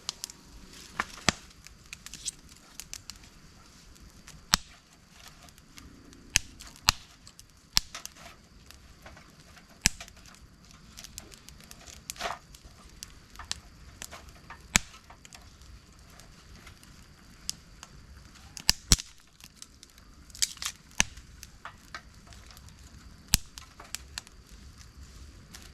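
Campfire crackling, with irregular sharp pops and snaps from the burning wood over a faint steady hiss.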